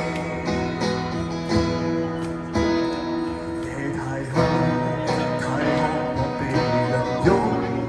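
Acoustic guitar strumming chords with sustained notes in an instrumental break of a live Cantopop song, with no singing.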